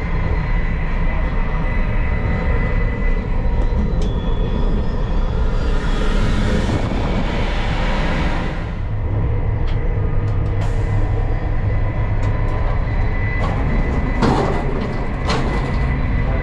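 Euroduplex TGV high-speed train running: a steady low rumble with a thin, steady whine over it. A hissing rush swells for about three seconds midway, and a few sharp clicks and knocks come near the end.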